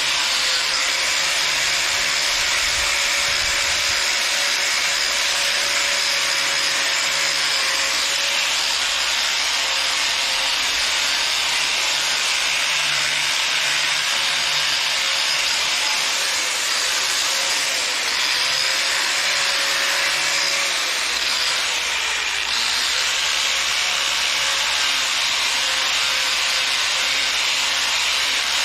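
Power tool spinning a wire wheel, scrubbing rust and old paint off a backhoe's cast-iron front weight. It runs steadily, its motor pitch wavering and dipping briefly about three quarters through as it is pressed harder into the metal.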